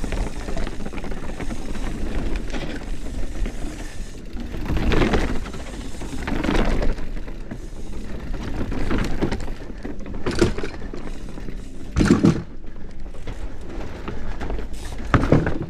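Mountain bike being ridden down a rough trail: a steady rumble and rattle of tyres and frame, with several heavy thuds from hard hits along the way.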